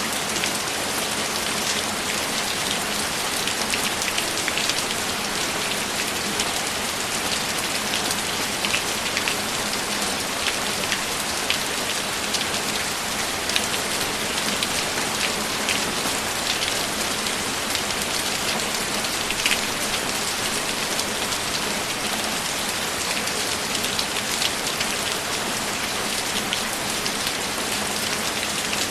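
Steady rain, an even wash with many separate drop ticks scattered through it.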